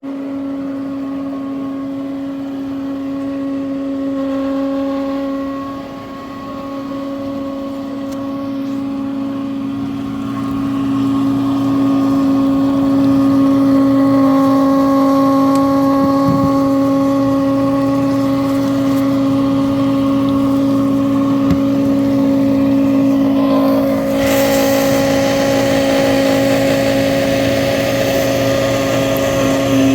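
Frigidaire dishwasher motor running with a loud, steady hum, the noise of a defective motor. It grows louder about ten seconds in, and a hiss of spraying water joins near the end.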